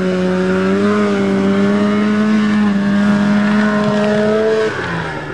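A small off-road vehicle's engine held at high revs under load while climbing a hill, its note steady and creeping slightly higher, then dropping sharply as the throttle is let off near the end.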